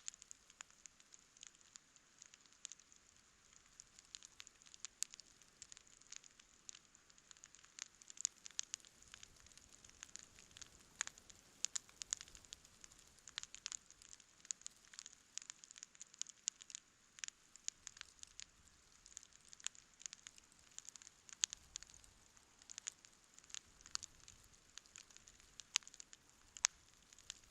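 Wood campfire crackling quietly: an irregular, steady stream of sharp snaps and pops, several a second, over a faint hiss.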